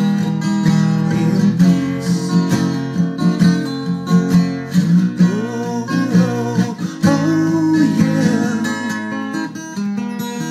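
Acoustic guitar strummed and picked in a steady accompaniment, playing the instrumental bars of the song between sung lines.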